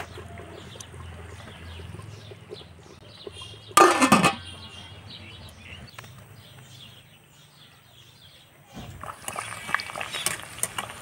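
Small birds chirping repeatedly over a steady low hum, with one loud brief clatter about four seconds in. Near the end come clinks of metal cookware.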